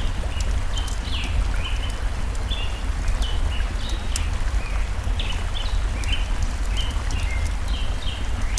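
Steady rushing of a forest stream, the loudest sound, with a small bird singing short, falling chirps several times a second over it and sharp crackles from a wood fire.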